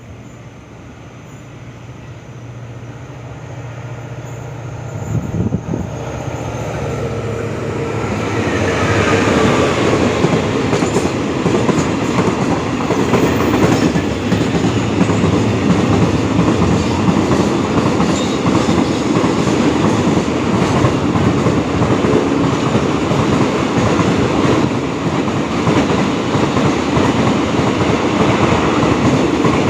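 QSY-class diesel-electric locomotive approaching and going past, its engine hum growing louder over the first several seconds. It is followed by a long string of empty tank wagons rolling by, loud and steady, with a continuous clickety-clack of wheels over rail joints.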